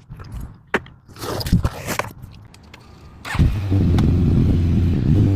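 A few clicks and scuffs, then about three seconds in an engine starts running steadily with a low hum.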